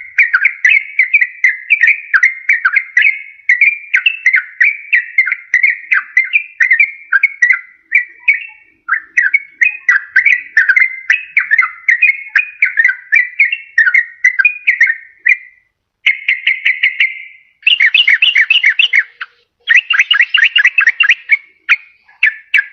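Yellow-vented bulbul (trucukan) singing: a long, rapid run of fluty, warbling notes with a brief pause about nine seconds in. In the last six seconds it breaks into short bursts of fast chattering.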